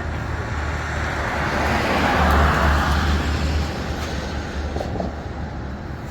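Road traffic: a vehicle passing, its noise swelling to a peak about two seconds in and then fading, over a steady low rumble.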